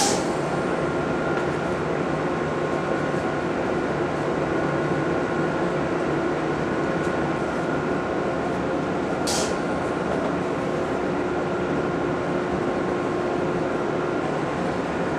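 Electric train running, a steady rumble with a constant whine, broken by two short high hisses, one at the start and one about nine seconds in.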